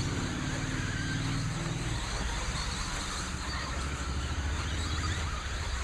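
Electric radio-controlled stock trucks racing around the track: a steady mix of motor and tyre noise over a constant low rumble.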